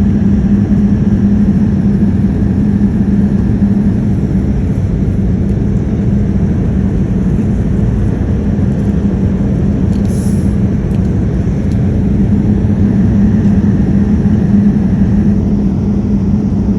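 Airplane cabin noise in flight: a loud, steady drone of engines and rushing air with a constant low hum. There is a brief faint click about ten seconds in.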